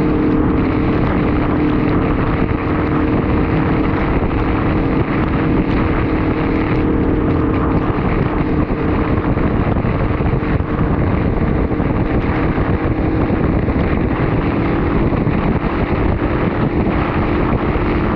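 Honda VFR800Fi V4 engine running at a steady cruising speed, its pitch holding even, under wind rushing over the microphone.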